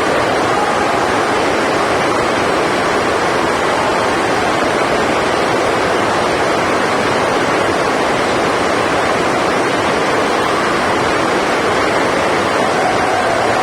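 Steady, loud rushing noise with no breaks, with a few faint wavering tones in the background.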